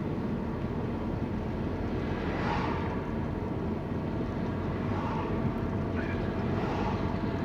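Steady road and engine noise heard from inside a moving car's cabin, a low even rumble.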